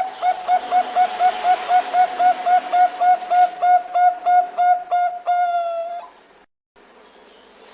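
Zebra dove (Bangkok perkutut) calling: a fast run of short, even coos, about five a second, ending in one longer drawn-out note that dips at its close. Played as a lure call to start other perkutut singing.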